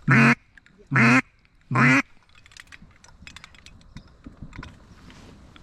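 Three loud, raspy duck quacks, each short and about a second apart, blown close by on a hunter's duck call to bring in circling ducks.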